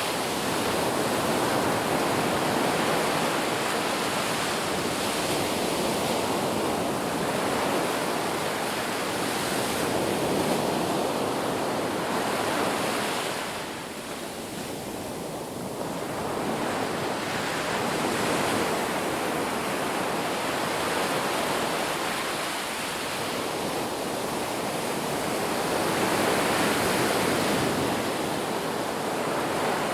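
Ocean waves breaking on a beach: a continuous hiss of surf that swells and ebbs in slow surges, easing off briefly about halfway through.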